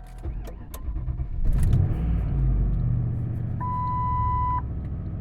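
1998 Lincoln Continental's 4.6-litre DOHC V8 being cold-started: a brief crank, then it catches about a second and a half in, flares up and settles into a steady fast cold idle. About four seconds in, a steady electronic beep sounds for about a second.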